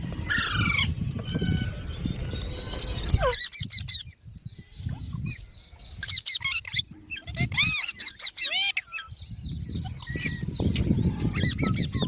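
Green parrots calling, a run of short chirps and squawks, each note rising and falling in pitch. A low rustling rumble sits under the calls at the start and again near the end.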